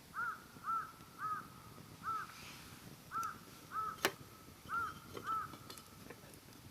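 A crow cawing eight times, the calls mostly coming in pairs. Firewood in a campfire gives a sharp pop about four seconds in and a few fainter crackles after it.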